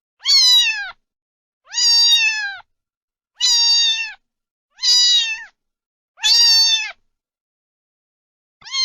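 A domestic cat meowing repeatedly: about six high meows, each under a second long and falling in pitch at the end, one every second and a half or so.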